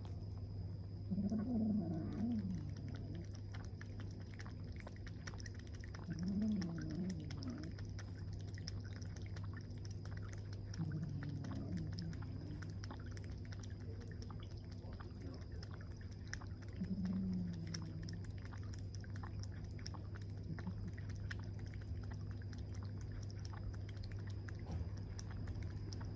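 A cat meowing: short, low calls that rise and fall in pitch, about every five seconds, five in all, over a steady low hum.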